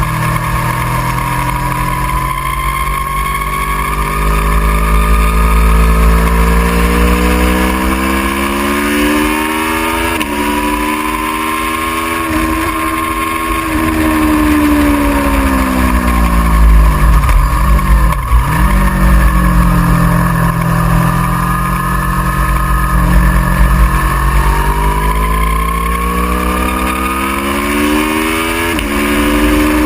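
Aprilia Tuono V4R's V4 engine at track speed, the revs climbing steadily through the gears, dropping away sharply under braking about halfway through, then building again. There are sudden jumps in pitch at gear changes about ten seconds in and again near the end.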